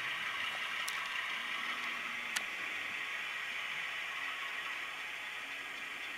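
Tsunami sound decoder in an HO-scale Bowser U25B model locomotive playing its diesel engine sound through the model's small speaker, a steady rushing hiss. Two sharp clicks come about one second and two and a half seconds in.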